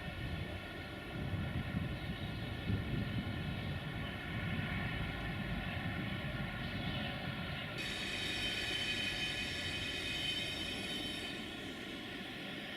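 Class 480 electric locomotive during shunting. Its equipment keeps up a steady multi-tone hum over a low rumble. A higher whine joins about eight seconds in and stops about three seconds later.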